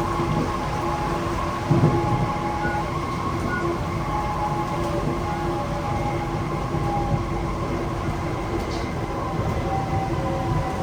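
Cabin sound of a Kawasaki C151C metro train running between stations: a steady rumble of wheels on track with several steady whining tones over it. There is one louder knock a little under two seconds in.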